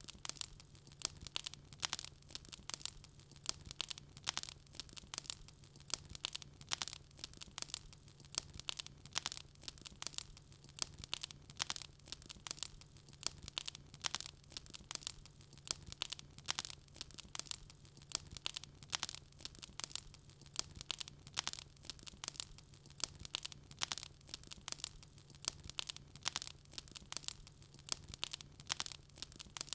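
Wood fire crackling in a fireplace: a steady stream of sharp, irregular crackles and small pops, several a second.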